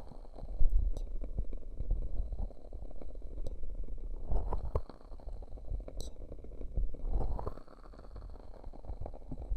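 Muffled, irregular low rumbling and squishing of ear cupping over a binaural microphone's ears, with a few faint sharp crackles from a wood-wick candle.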